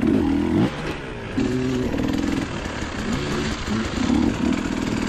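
Dirt bike engine revving under riding, its pitch rising and falling several times as the throttle is opened and closed.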